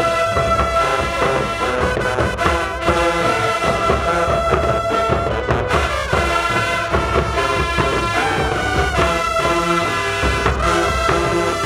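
High school marching band playing a brass-heavy tune, with held horn notes over a steady drum beat.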